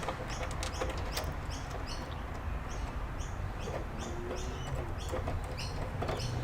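A small bird chirping over and over, short high notes a few times a second, with scattered faint clicks.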